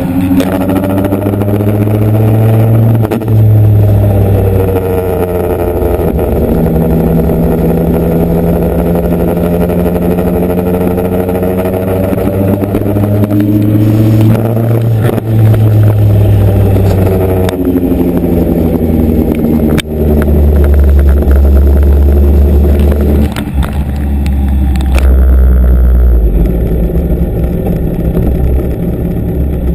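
Motorcycle engine under way, its note climbing and falling several times as it accelerates and changes speed.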